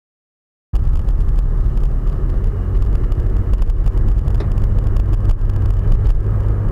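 Silence for under a second, then a steady low rumble of a car in motion, engine and road noise heard from inside the car.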